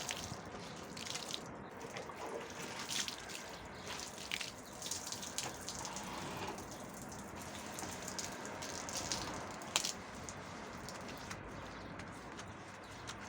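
Water splashing and dripping during household cleaning, with scattered short wet scrubbing sounds and a single sharp click about ten seconds in.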